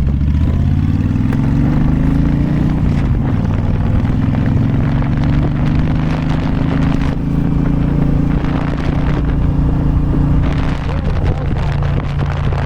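Motorcycle engine pulling away, its pitch rising over the first two seconds or so, then running steadily at cruising speed, with wind buffeting the helmet microphone more toward the end.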